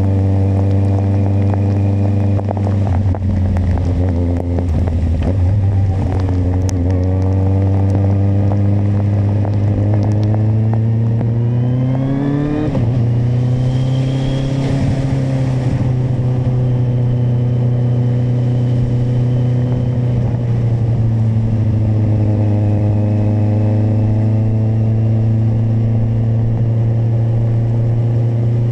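Kawasaki motorcycle engine running under way: it eases off briefly, then accelerates with a rising pitch for several seconds. About twelve seconds in it shifts up with a sudden drop in pitch, and it settles into a steady cruise, with a brief hiss a couple of seconds after the shift.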